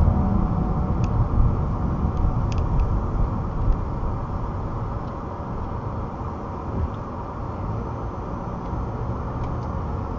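Steady road and engine rumble heard inside a moving vehicle's cabin, easing off slightly over the first few seconds, with a few faint clicks.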